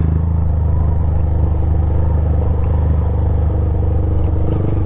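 Honda Grom's 125 cc single-cylinder engine with an aftermarket Zoom Loop exhaust, running steadily at low revs.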